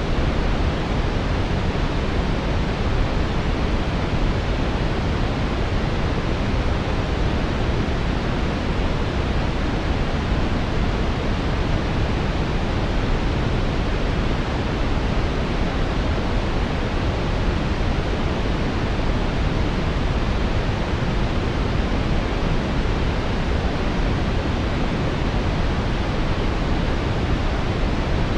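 Synthetic brown noise: a steady, deep rushing hiss with most of its weight in the low end, unchanging throughout.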